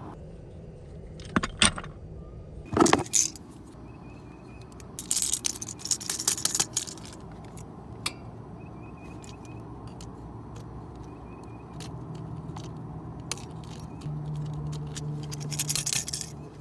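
Metal hand tools clinking and scraping in short, irregular bursts during work on a copper refrigerant line.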